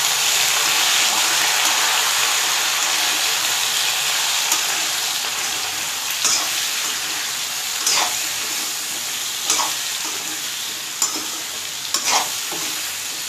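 Capsicum and potato pieces sizzling in hot oil in a kadhai while a metal spatula stirs them. The spatula scrapes and clinks against the pan every second or two, and the sizzle slowly eases.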